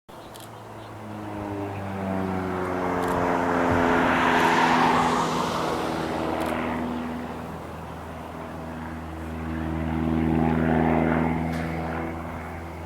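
Aircraft engine passing low overhead, swelling to a peak and falling in pitch as it goes by, followed by a second similar pass near the end.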